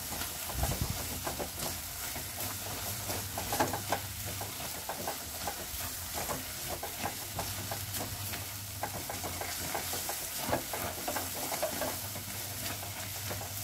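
Mushrooms and green peas frying in masala in a kadhai, sizzling steadily, while a silicone spatula stirs and scrapes them across the pan with irregular scrapes and taps.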